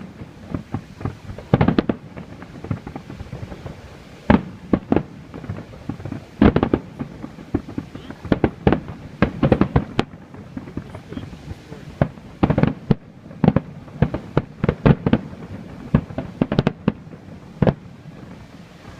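Fireworks display: aerial firework shells bursting in an irregular series of sharp bangs, many coming in quick clusters.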